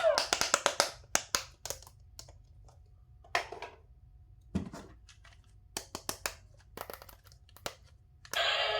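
Handling noise from toys and packaging: a quick run of light plastic clicks and taps with some crinkling, then scattered clicks and one dull thump about four and a half seconds in.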